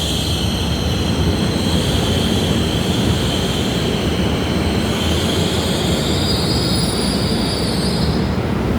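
A train running past with a low rumble and a high, drawn-out squeal of steel wheels on rail that drifts slowly in pitch, then cuts off sharply near the end.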